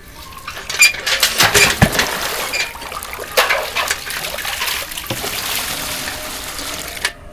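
Water splashing and pouring as a pail is drawn up from a well and emptied into a plastic bucket. Several sharp knocks and splashes come in the first two seconds and a couple more later. The sound stops abruptly near the end.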